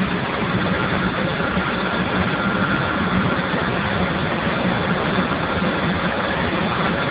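Steam boiler running: a steady rushing noise with a low hum and a faint high tone over it.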